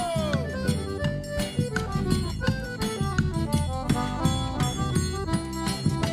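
Forró band playing an instrumental passage: a melody over a steady, dense drum and percussion beat, with a sung note sliding down at the very start.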